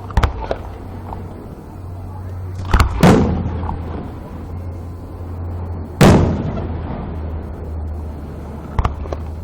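Fireworks shells bursting overhead: a couple of small pops at the start, two loud bangs close together about three seconds in, another loud bang about six seconds in, and lighter pops near the end, each big bang trailing off in a rumbling echo. A steady low hum runs underneath.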